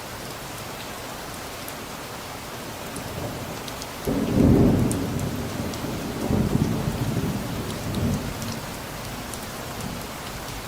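Steady rain, with a thunderclap about four seconds in that rolls on as a low rumble, swelling twice more before dying away near the end.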